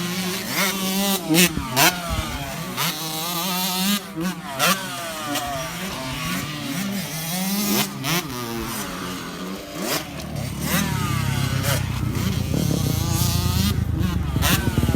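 Dirt bike engine revving up and down over and over as the throttle is worked. From about ten seconds in it settles into a louder, steadier low running note close by.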